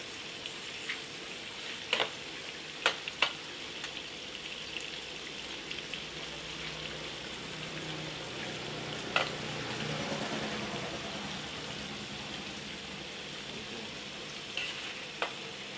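Pieces of pork diaphragm frying in hot oil in a steel wok with a steady sizzle. A metal spatula clicks sharply against the wok a few times as the meat is stirred.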